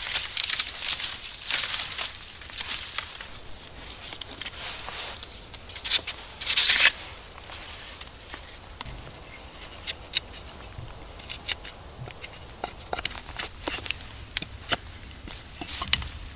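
Dry leaves and twigs crunching and crackling in loud bursts over the first seven seconds, then sparse small snaps and clicks.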